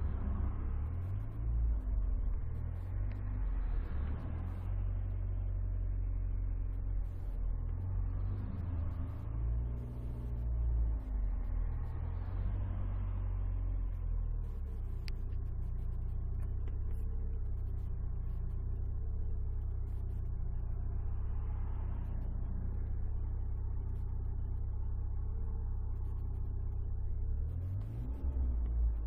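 Alfa Romeo 156 driving: a steady low engine and road rumble that swells and eases several times.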